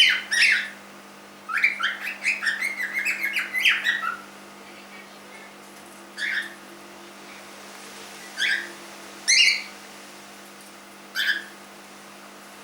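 Young cockatiel, about three months old, chirping a quick run of short warbled notes, then giving four single short calls spaced a second or two apart.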